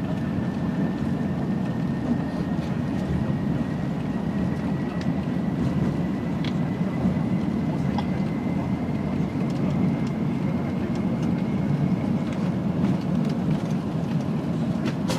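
Steady rumbling cabin noise inside an Airbus A380 under takeoff power, from its four Engine Alliance GP7200 turbofans and the airflow, with a faint thin whine slowly rising in pitch that fades out about three quarters of the way through.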